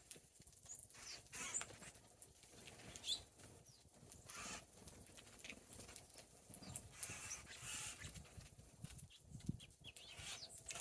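Small birds giving faint, scattered short call notes, with soft irregular scuffling sounds between them.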